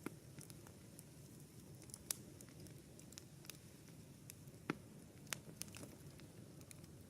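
Wood campfire crackling: scattered sharp pops and snaps, a handful of them louder, over a faint low steady rumble.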